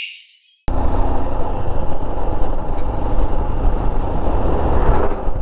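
Royal Enfield Himalayan's single-cylinder engine running on the move, heard with heavy wind rush on a helmet-mounted mic; it cuts in suddenly under a second in after a moment of silence.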